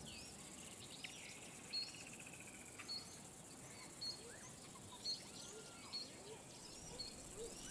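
Faint natural ambience of birds calling: short high chirps about once a second, with scattered whistled notes in between.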